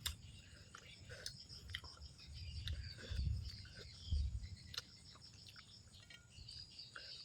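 Close-up eating sounds: a person chewing, with soft mouth smacks and clicks and a couple of louder bumps about three and four seconds in. Insects chirr steadily in the background.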